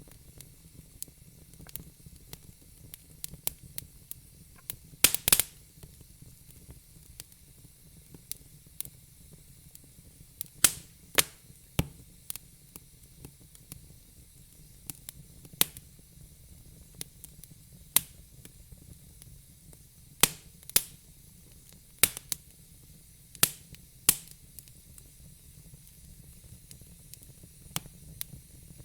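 Wood fire in a fire pit crackling: irregular sharp pops, about a dozen loud ones among many fainter ticks, over a faint steady hiss.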